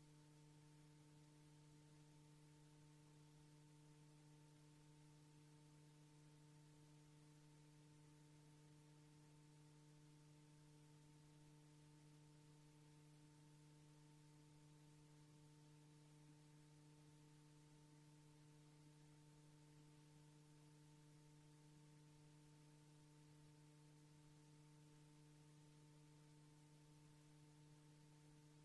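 Near silence: a faint, steady hum with a few fixed tones over hiss, unchanging throughout.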